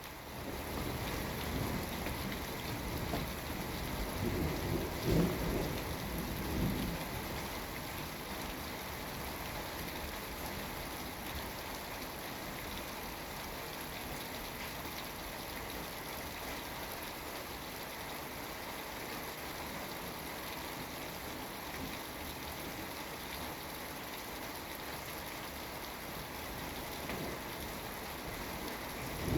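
Steady rain falling in a thunderstorm, with a low rumble of thunder about four to seven seconds in.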